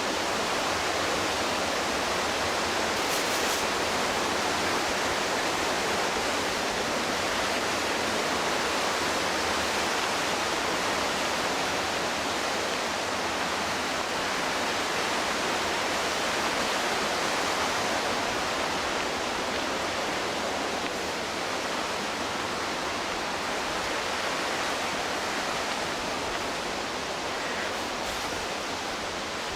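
Steady rush of the McKenzie River's whitewater, easing a little in the last third.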